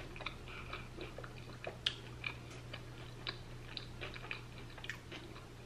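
A person chewing a bite of sandwich with the mouth closed: faint, irregular soft clicks and smacks over a steady low hum.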